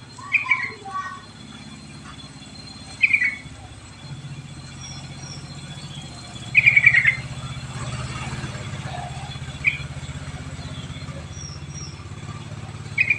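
Yellow-vented bulbul (trucuk) giving five short, bubbly chirping phrases spaced a few seconds apart, the longest about halfway through. A steady low hum runs underneath and grows louder about four seconds in.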